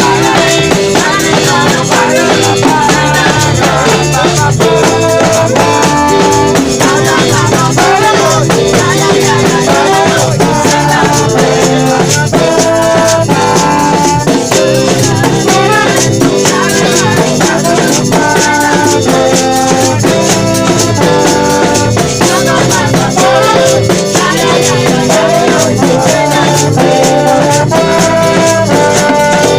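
Reggae band playing an instrumental passage: held melody notes over drums and a steady shaker.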